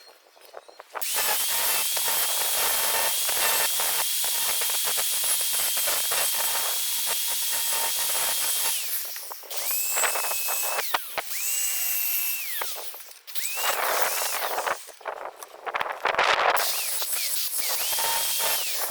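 A power tool's motor whining in several runs. The first is long and steady, the later ones shorter, each winding down in pitch as the trigger is released, with grinding or cutting noise under the whine.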